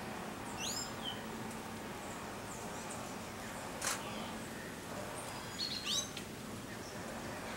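Birds calling in short rising whistled notes, a few near the start and a cluster around six seconds in, over a steady background hiss. There is one sharp click near the middle.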